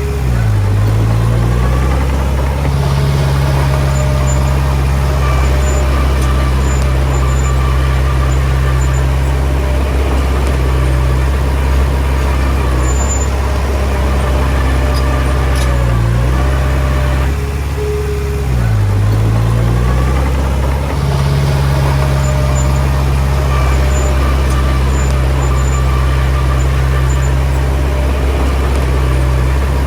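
Diesel engine of a small crawler bulldozer running loud and steady. Its pitch dips briefly and climbs back twice, once right at the start and again about 18 seconds in.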